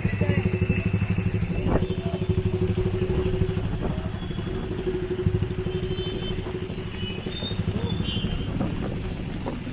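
A motorcycle engine running nearby with a fast, even putter that gradually fades.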